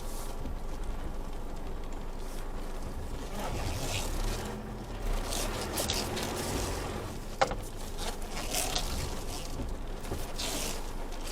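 Isuzu D-Max V-Cross pickup's engine running low and steady on an off-road trail, with short spells of hiss from the wet ground and one sharp knock about seven seconds in.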